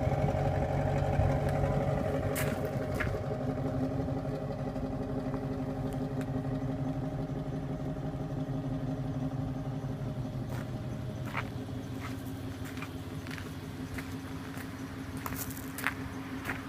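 Range Rover's 4.2-litre supercharged V8 idling steadily, slowly settling a little quieter, with a few short clicks in the second half.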